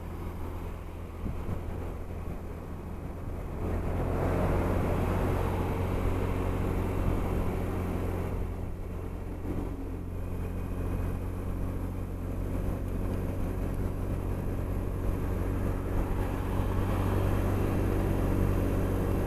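Honda SH 300i scooter's single-cylinder engine running at steady motorway speed, with a constant low rumble; it gets louder about four seconds in.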